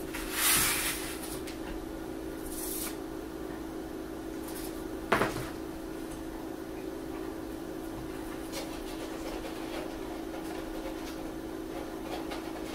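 Quiet handling of paper craft pieces: two brief rustles near the start and a single sharp tap about five seconds in, over a steady low hum.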